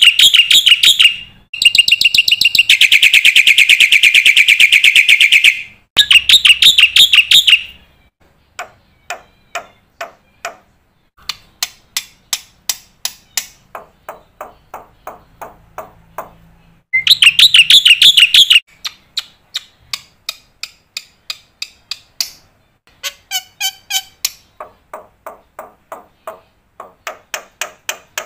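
Black-winged myna (jalak putih) in full song: loud, fast chattering trills in several runs, the longest about four seconds, alternating with stretches of softer, quick clicking notes at about four a second.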